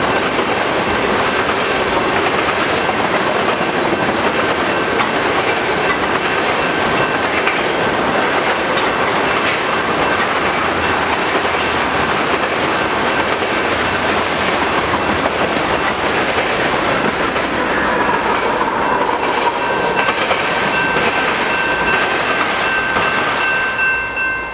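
Tank cars of a crude oil train rolling past steadily, wheels clicking over the rail joints, with a thin high squeal from the wheels coming and going. The noise drops off at the very end as the last car clears.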